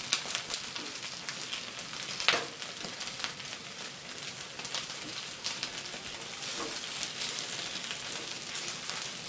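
Chive cakes sizzling in oil in a non-stick frying pan, a steady hiss, with metal tongs clicking against the pan now and then as the cakes are turned; a sharp click about two seconds in is the loudest.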